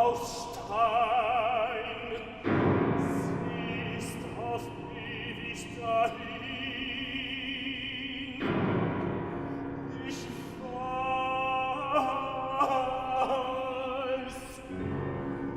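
Operatic singing with wide vibrato over classical instrumental accompaniment, with strong accompanying chords entering about two and a half and eight and a half seconds in.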